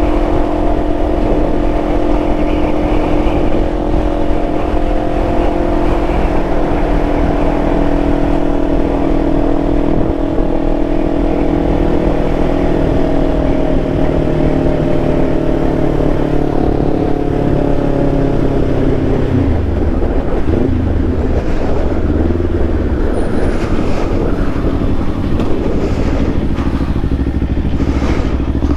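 Kawasaki Ninja 500 parallel-twin engine running on the road under steady wind rush. Its note falls slowly for about twenty seconds, then drops and wavers as the bike slows, with a few short knocks near the end.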